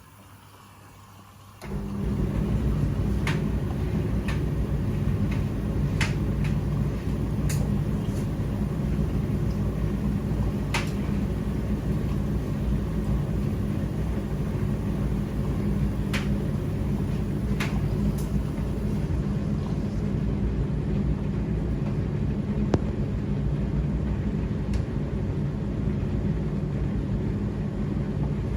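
Laundry machine running with a steady low rumble that starts suddenly about two seconds in, with occasional light clicks over it.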